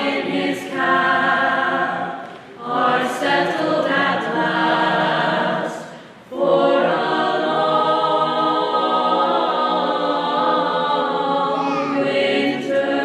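Choir singing a Christmas carol in phrases, with short breaks about 2.5 and 6 seconds in, then a long unbroken passage.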